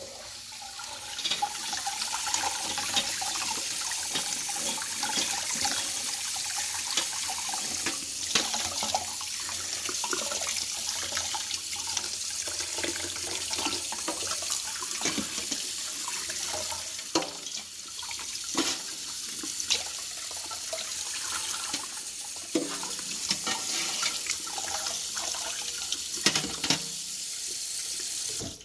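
Kitchen tap running steadily as a dishwasher's drain filter parts are rinsed under the stream, with a few short knocks as they are handled; the water cuts off abruptly at the end.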